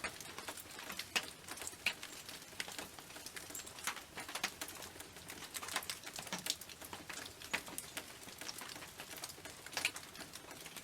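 Rain falling on a tin roof: a steady hiss with irregular sharp ticks of single drops striking the metal.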